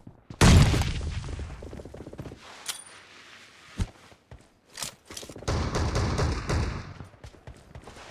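Video game gunfire: a loud burst of shots with a long echoing tail about half a second in, a few single shots and thuds over the next few seconds, then another burst with an echoing tail.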